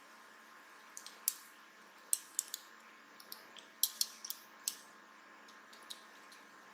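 A series of light, sharp clicks and ticks from small hand tools working on the inside of a Samsung Gear S3 smartwatch as its motherboard is prised out, irregular and bunched in the middle, over a faint steady hum.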